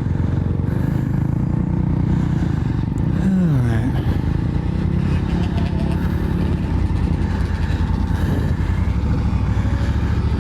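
Honda Africa Twin's parallel-twin engine running steadily at low speed while being ridden, with a brief drop in engine pitch about three seconds in.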